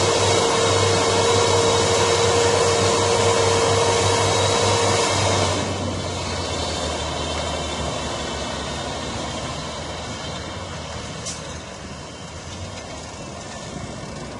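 Fendt Vario tractor's six-cylinder diesel engine working under load, with a steady whine over the engine note. About five and a half seconds in the sound drops suddenly, then fades steadily as the tractor moves away.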